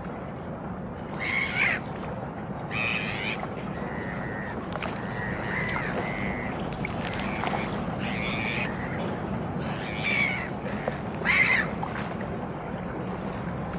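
Birds giving harsh calls, about five short ones spaced through, with some softer drawn-out notes in the middle, over a steady low background noise.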